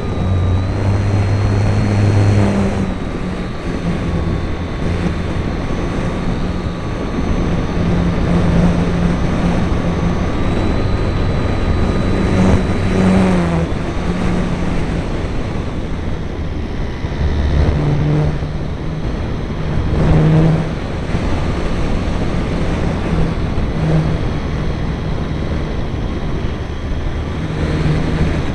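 Radio-controlled model airplane in flight: its motor and propeller running steadily with a faint high whine that drifts slightly in pitch, over a constant rush of air noise.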